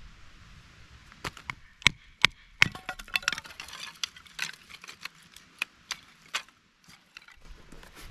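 A series of sharp knocks and clinks, hard objects striking one another, irregularly spaced, with a quick cluster about three seconds in.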